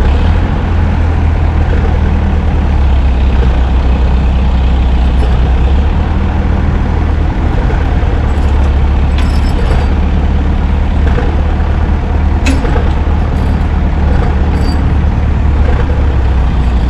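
Heavy truck's diesel engine running steadily at a low, even rumble, with a few sharp clicks over it about halfway through and again a few seconds later.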